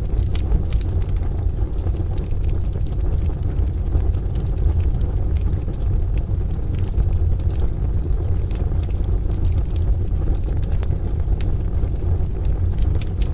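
Rain and a deep, steady low rumble of distant thunder, with sharp, scattered crackles and pops from a wood fire in a stove throughout.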